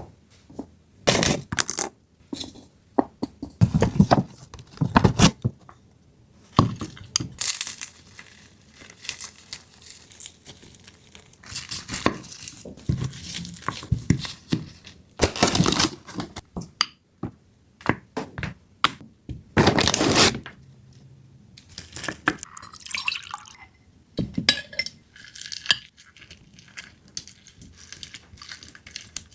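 Kitchen preparation sounds: dishes and utensils clinking and knocking against each other, along with liquid being handled, in a series of separate irregular clatters and splashes.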